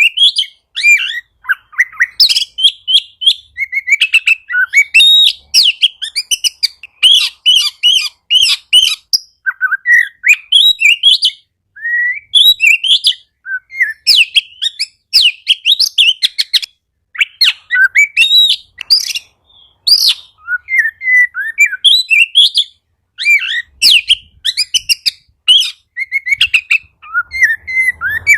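Oriental magpie-robin (kacer) singing energetically: a fast, varied song of whistled notes, chirps and rapid trills, phrase after phrase with short pauses.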